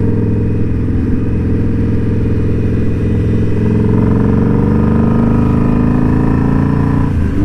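Indian Scout Bobber motorcycle engine running steadily; its revs rise gently from about halfway through.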